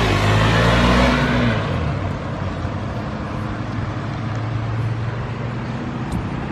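A manual Ford Mustang's engine pulling away, loud for the first second or so, then fading into a steadier, quieter engine hum.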